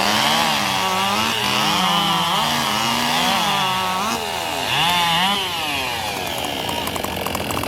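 Two-stroke racing chainsaw running at full throttle through a timed cut in a log. The engine pitch keeps dipping under load and recovering, then the saw's note drops away after about five and a half seconds.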